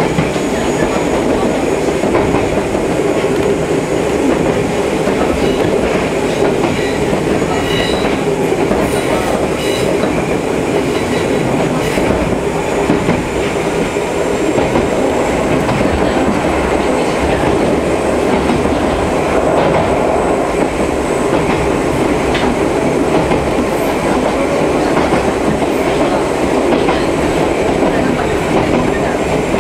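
Ichibata Electric Railway 2100 series electric train running at steady speed, heard from inside the passenger car: a continuous rumble of wheels on the rails.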